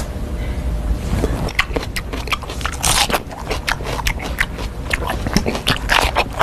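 A person chewing crunchy snack food loudly, with a rapid, irregular run of crunches that grows denser and louder after about a second and a half.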